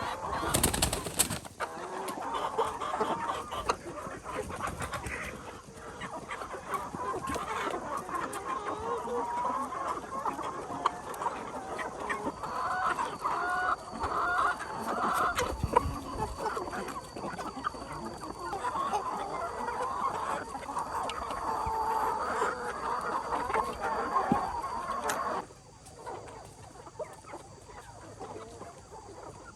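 A flock of chickens clucking, many short calls overlapping; the calling drops away abruptly a few seconds before the end.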